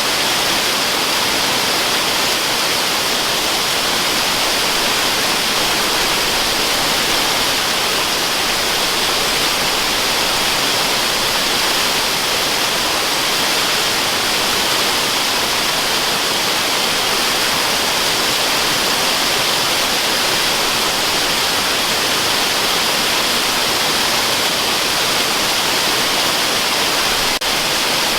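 Waterfall rushing steadily: an even, unbroken hiss of falling water, strongest in the high tones. A faint click with a brief dip in level comes near the end.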